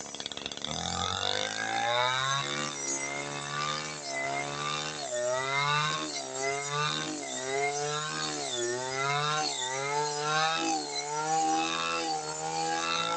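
Brush cutter engine coming up to speed about a second in, then running at high revs with its pitch dipping and rising about once a second.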